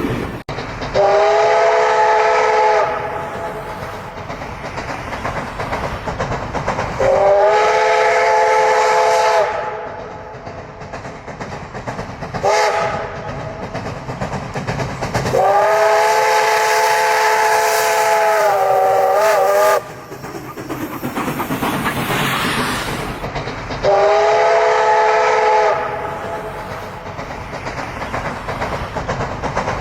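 Steam locomotive whistle blowing four times, short, short, one long blast of about four seconds, then short, each blast several tones sounding together, with another blast starting at the very end. Between the blasts the train's running noise and wheel clatter go on.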